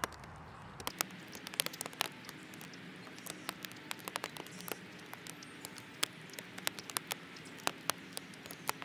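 Outdoor backyard ambience: a steady hiss with many quick, irregular clicks and patters, several a second.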